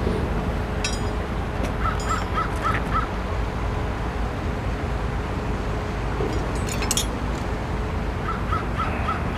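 A bird calls in two quick runs of five or six short, evenly spaced notes, several seconds apart, over a steady low rumble.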